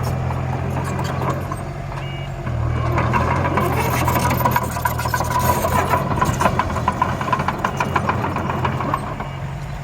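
Miniature radio-controlled dump truck and bulldozer models working, with a steady engine-like hum. From about three seconds in there is a whine and a busy rattle of clicks, like stones and soil moving.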